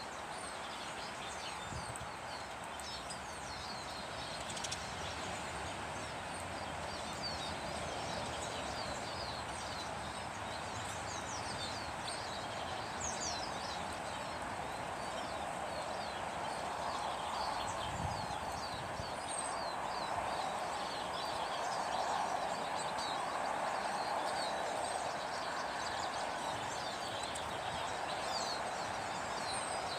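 Many small birds chirping, with short, high, quick calls scattered throughout. Underneath is a steady background noise that grows a little louder about halfway through.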